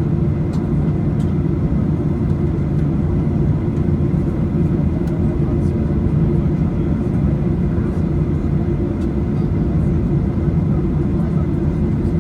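Steady low rumble of engine and airflow noise heard inside the cabin of a Boeing 737-800 airliner, with a few faint ticks.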